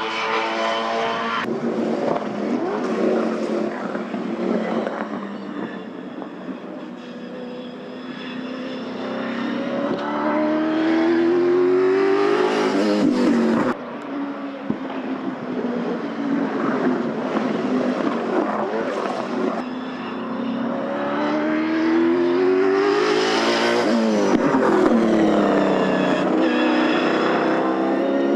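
Nissan Altima V8 Supercar's V8 engine at full race pace: the revs climb as the car comes closer, then the pitch drops sharply as it passes. This happens twice.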